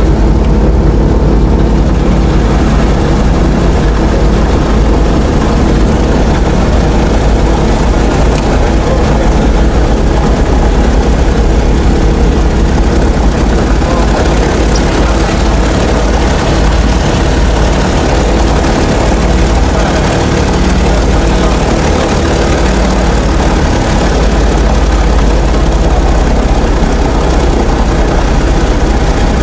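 A DC-3's radial piston engine running steadily at idle after start, heard from inside the cockpit.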